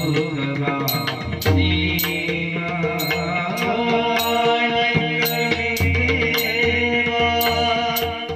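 Marathi devotional bhajan music: deep pakhawaj drum strokes under sustained melodic tones, with sharp high strikes in a steady rhythm.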